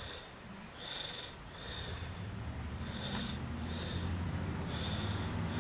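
Short breathy sniffs or snorts, roughly one a second, over a low steady hum that comes in about two seconds in.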